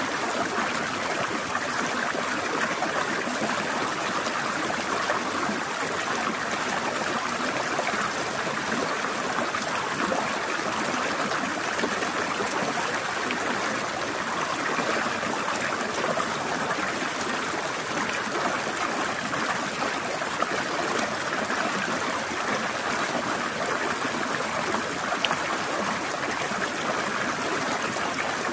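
A shallow stream trickling and gurgling over rocks, a steady, unbroken rush of running water.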